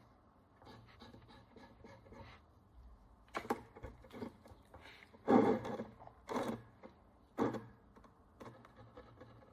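Scraping of encrustation off an ancient Roman bronze coin, as a fine tool works the crust in quick, faint strokes. In the middle come four or five louder scrapes, the strongest about five seconds in and lasting about half a second.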